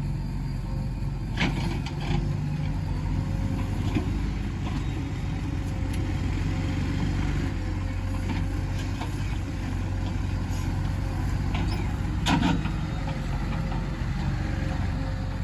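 Diesel engine of a JCB 3DX backhoe loader running steadily at work, with a few sharp clanks: one about a second and a half in, one at about four seconds, and a louder one near the end.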